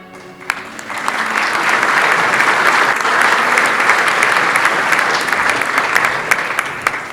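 Audience applauding: clapping swells about a second in, holds steady, and tapers off near the end.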